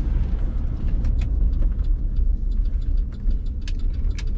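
Chevrolet SUV's engine running, a steady low rumble heard from inside the cabin. From about a second in, a rapid, even light ticking runs over it at about five ticks a second.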